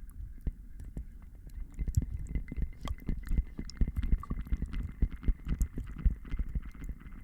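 Close-miked ASMR trigger sounds: dense, irregular soft crackles and taps, thickening about two seconds in, over a faint steady high-pitched tone.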